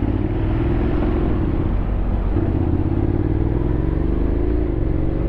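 Honda X-ADV 750's parallel-twin engine running under way. Its pitch drops about two seconds in, then climbs steadily as the bike gathers speed.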